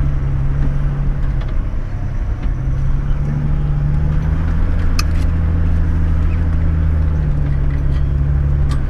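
Toyota LandCruiser 105 series engine running steadily at low revs on a dirt track, its note shifting slightly a couple of times. There is a sharp click about five seconds in.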